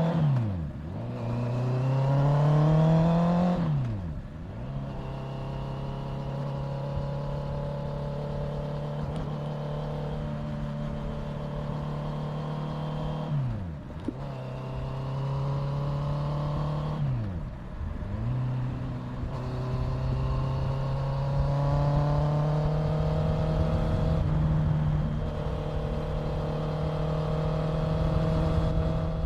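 Honda CBR650F's inline-four engine pulling through the gears. The revs climb and drop at about four upshifts in the first half, then hold steady at cruising speed, with wind rush underneath.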